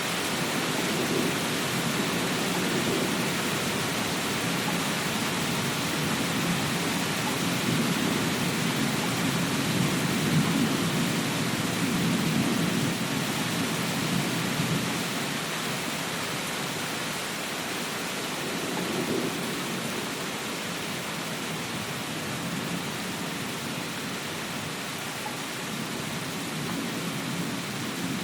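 Steady rain with a low rumble of distant thunder that swells about eight seconds in and fades out by about fifteen seconds, with a shorter low swell near the twentieth second.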